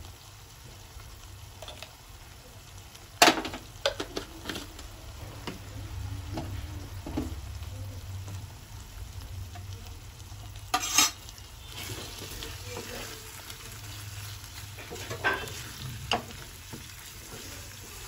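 Chicken curry frying gently in a non-stick pan, a low sizzle, with a few sharp clicks and knocks, the loudest about three seconds in and about eleven seconds in. A wooden spatula starts stirring the pan near the end.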